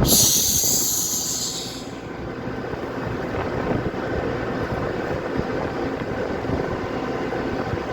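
Steady machine rumble with a high, wavering squeal over it for the first two seconds.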